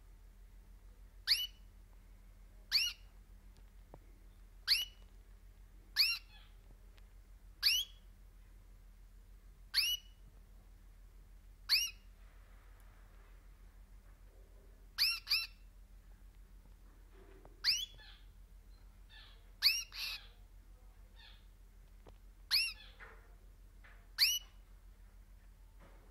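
Pet canary giving loud, short, shrill call notes, each a quick downward sweep in pitch, repeated every one and a half to two seconds, sometimes doubled in quick succession.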